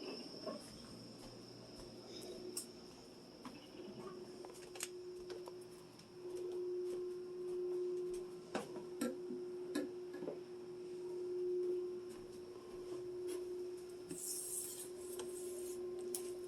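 A steady low hum with a faint high whine, overlaid with scattered light clicks and taps and a brief hiss near the end.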